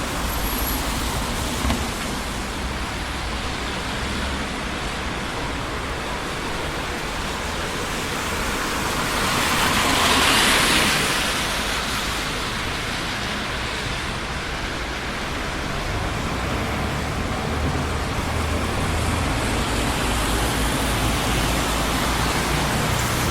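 Steady traffic noise of a busy city street, a continuous rush of tyres and engines, with one vehicle passing close and louder about ten seconds in.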